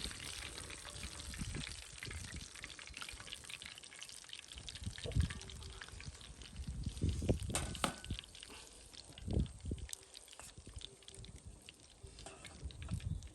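Hot oil sizzling and crackling as chicken karaage deep-fries, with a few dull knocks from handling the pot or utensils.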